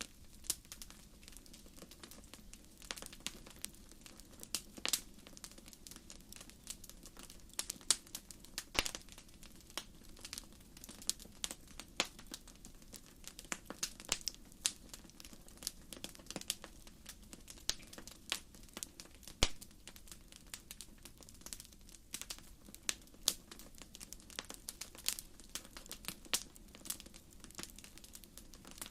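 Wood campfire burning, its firewood crackling and popping at irregular intervals over a soft steady rush of flame; a few louder pops stand out, one sharp one near the middle.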